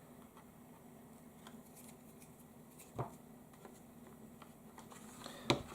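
Quiet room with a faint steady hum and two small clicks of something being handled, one about three seconds in and one near the end.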